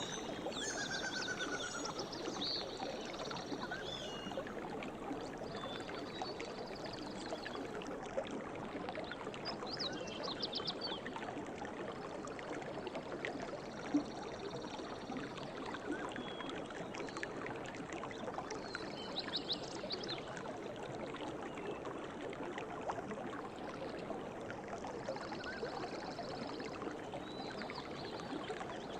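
River water running steadily, with small birds chirping and trilling now and then above it, including a quick trill about ten seconds in and more calls near twenty seconds and near the end.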